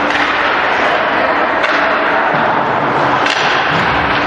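Ice hockey rink noise during play, with about four sharp knocks from puck and sticks on the ice and boards, the loudest a little past three seconds in, and a dull thud near the end.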